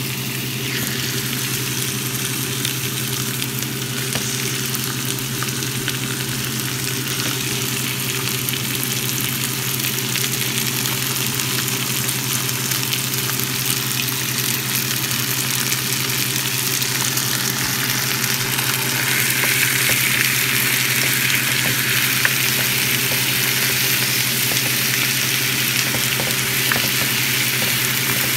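Boneless chicken thigh pieces and sliced onions sizzling in hot oil in a frying pan: a steady hiss with a few faint crackles, growing louder about two-thirds of the way in. A steady low hum runs underneath.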